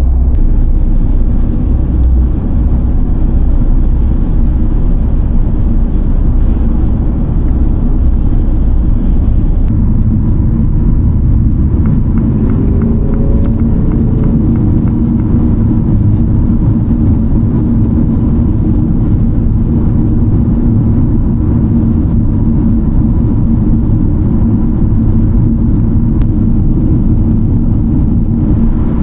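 Steady engine and tyre noise heard inside the cabin of a car driving on the highway, with a low hum that comes in about a third of the way through.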